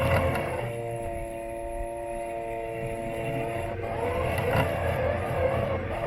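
Robot lawn mower's electric motors running, heard through the body the camera is taped to, with a low rumble from the chassis. About a second in, the sound settles into a steady whine of several held tones for a few seconds, then turns wavering and uneven again.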